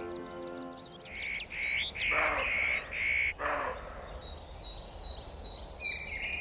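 Wild birds calling: two loud, rough, crow-like calls about two and three and a half seconds in, among quick, high chirping from small birds.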